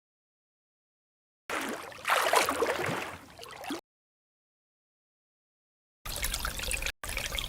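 Water splashing and trickling in short separate clips, each cut off abruptly by dead silence.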